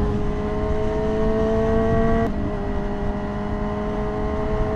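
Yamaha R6 inline-four sport bike engine pulling steadily under throttle, its pitch climbing slowly. It drops sharply at an upshift a little over two seconds in, then climbs again in the next gear, under constant wind rush.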